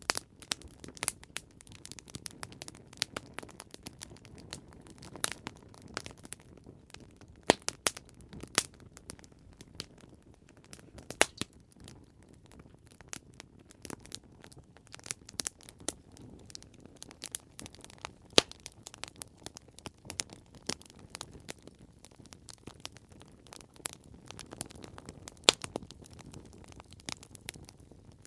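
Campfire burning with irregular crackles and sharp pops over a low, steady rumble of the flames.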